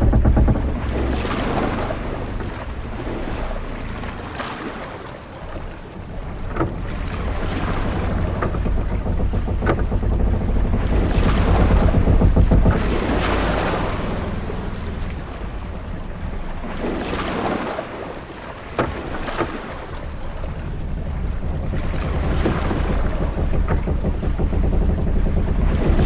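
Sailing-ship-at-sea ambience: waves washing against the hull in slow swells every five or six seconds over a low rumble and wind. A few short knocks sound now and then.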